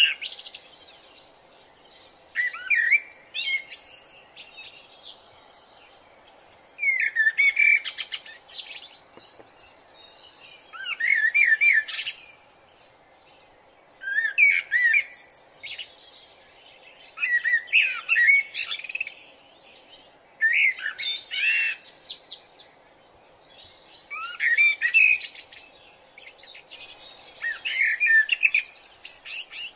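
A songbird singing short, fast, warbling phrases, one every three to four seconds, over a faint steady hum.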